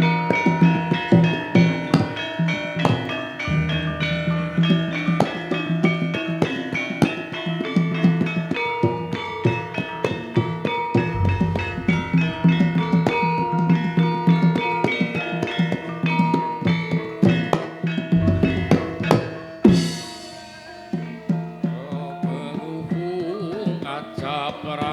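Javanese gamelan playing an instrumental passage of a gending: rapid struck metallophone notes over kendang drum strokes. A loud stroke comes about twenty seconds in, after which the playing thins out and grows quieter.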